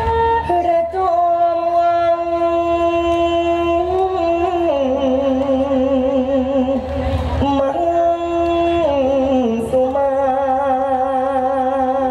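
Thai likay singing: a voice holding long, wavering notes that step down in pitch and rise again, over musical accompaniment.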